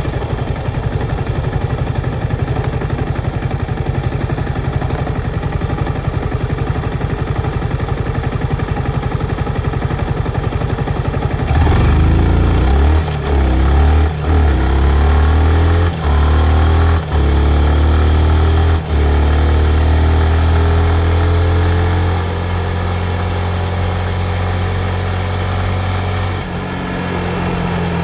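2019 Yamaha MT-15's single-cylinder 155 cc engine idling steadily, then at about twelve seconds in pulling away hard, its pitch rising again and again with about five brief drops as it shifts up through the gears. It then runs steadily, eases off briefly near the end and picks up again.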